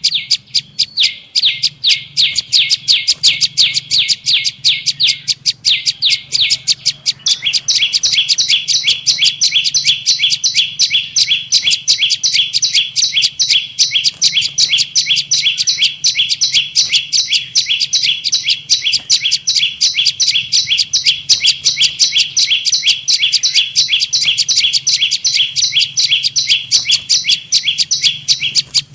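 Prenjak lumut lure call: a fast, unbroken run of sharp, high chirps, several a second. About seven seconds in the chirps shift a little higher. A faint steady low hum lies beneath.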